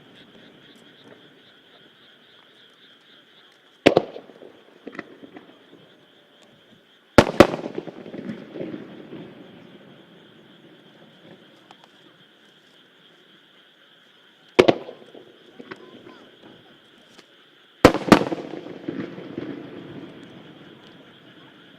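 Aerial firework shells bursting one after another: sharp bangs at about 4, 7, 15 and 18 seconds, the second and fourth each a quick double report. Each bang is followed by a crackling, rolling echo that fades over a couple of seconds.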